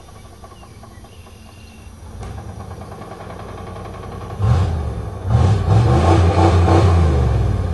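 Chevrolet 305 small-block V8 pickup engine running low, then revved hard about four and a half seconds in, dropping briefly and then held at high revs for about two seconds before easing off near the end.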